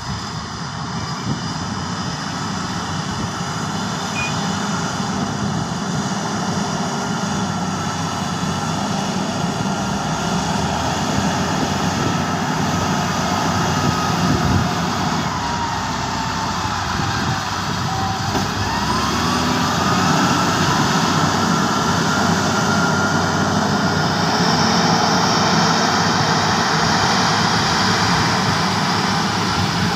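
Heavy diesel earthmoving machinery working steadily: an excavator and dump truck engines under load, with a whine that falls and rises in pitch partway through.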